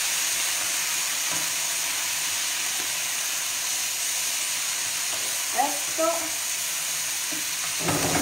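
Chopped radicchio, speck and onion sizzling steadily in a frying pan with a splash of wine, stirred as they cook.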